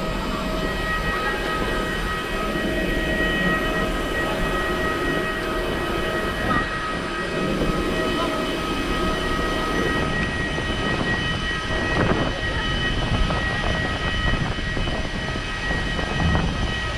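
Steady engine noise carrying a constant high whine of several tones, from the aircraft engines or the airport bus on the apron.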